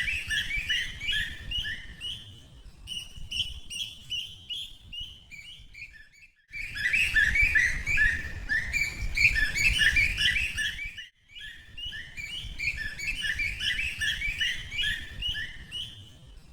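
Many birds chirping at once, quick overlapping chirps in a dense chorus over a low rumble. The sound breaks off abruptly twice, briefly.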